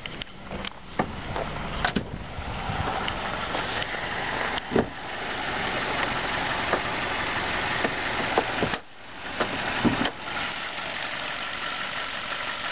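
Ford Focus four-cylinder engine idling steadily. Several knocks and clicks come as the hood is unlatched and raised, and over the last few seconds the idle is heard with the hood open.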